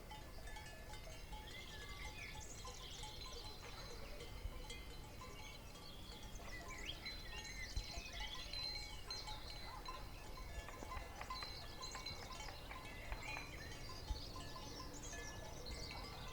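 Pasture ambience: many birds chirping throughout, with faint ringing of bells over a low wind rumble.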